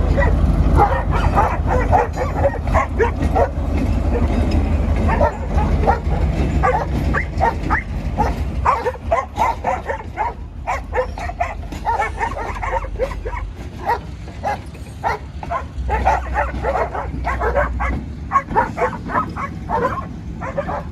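Dogs barking and yelping over and over, over the steady low rumble of a diesel locomotive that fades off and returns briefly.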